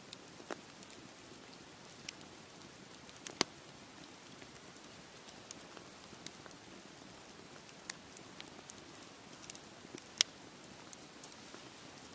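Campfire crackling: irregular sharp pops and snaps of burning wood, two of them louder, about three and a half and ten seconds in, over a steady soft wash of sea waves.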